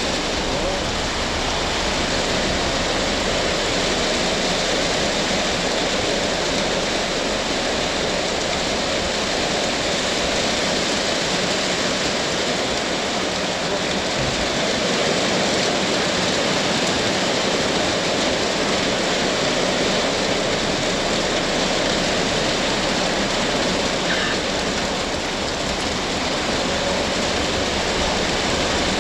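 Heavy tropical rain pouring down steadily.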